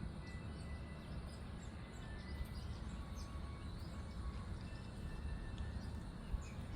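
Faint, scattered bird chirps and calls over a steady low rumble of outdoor background noise.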